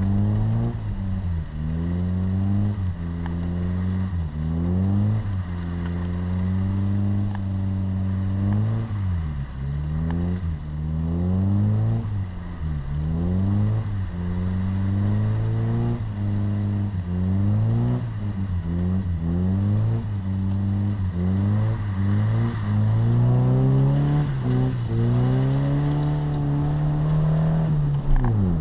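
Volvo 340's 1.4-litre four-cylinder petrol engine, heard from inside the cabin, revving up and dropping back again and again as the driver works the throttle. Near the end it is held high for several seconds, then falls off sharply.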